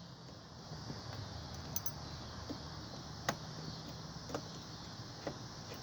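A few light metallic clicks and clinks from hand tools and small metal parts being handled, spaced about a second apart, over a steady low hum.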